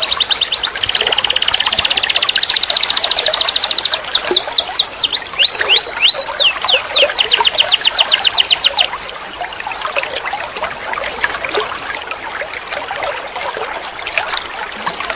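Domestic canary singing a string of fast, high trills and rolls, each phrase a rapid run of repeated notes that changes every second or two. The song stops about two-thirds of the way through, leaving only faint scattered chirps.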